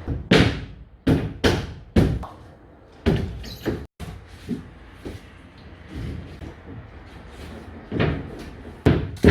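Nail gun firing a series of sharp shots, fixing tongue-and-groove louvre boards to a ceiling. There are about six shots in the first four seconds, a sudden cut, then softer knocks and two more shots near the end.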